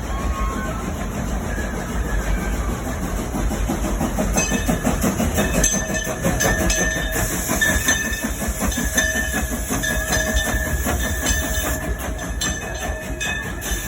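Train rolling into a depot: a steady rumble with repeated clacks of wheels over the track. From about four seconds in, a steady high metallic squeal joins and holds.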